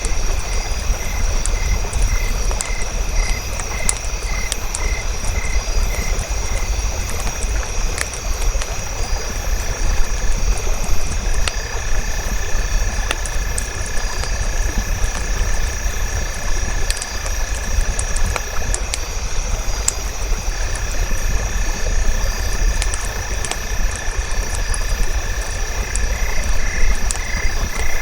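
Campfire crackling over a low rumble, with frogs and insects calling. A steady high insect buzz runs throughout. A pulsed chirp repeats about twice a second in the first few seconds and again near the end. A long steady trill starts about nine seconds in, breaks off briefly, and resumes.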